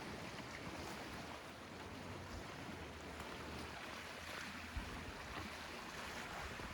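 Steady wash of small lake waves.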